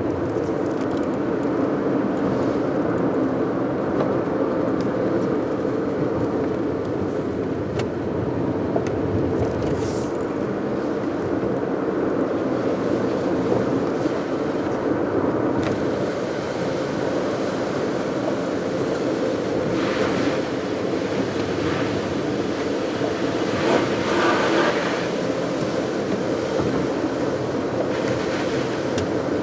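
Steady road and engine noise of a car driving on a wet road, heard from the cabin. There are brief louder hisses about twenty and twenty-four seconds in.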